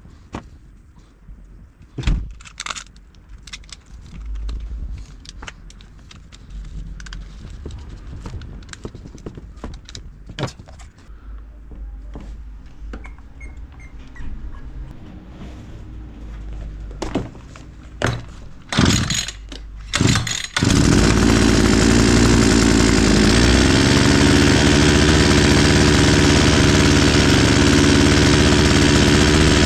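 Scattered clicks and knocks, then a few short bursts, and about 20 seconds in an Oleamac BCH 40 brushcutter's two-stroke petrol engine catches and runs loud and steady. It is running smoothly on a freshly replaced carburetor; before the swap it ran badly.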